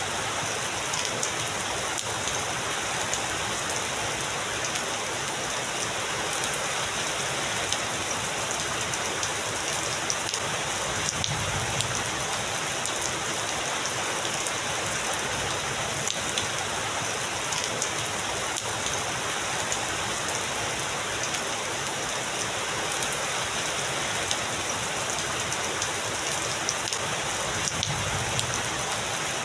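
Heavy rain falling steadily, a dense hiss dotted with sharp drop impacts. A faint low rumble swells twice, about eleven seconds in and near the end.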